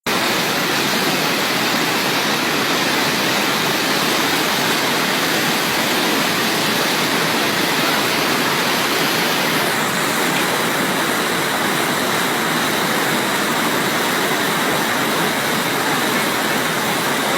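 Rhine Falls, a large waterfall: a steady, loud rush of falling water.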